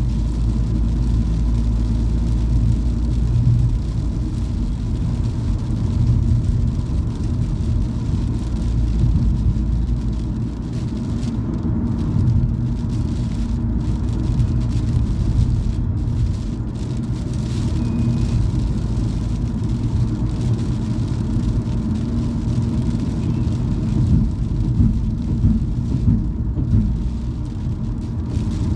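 A car being driven, heard from inside the cabin: a steady low rumble of engine and tyre noise.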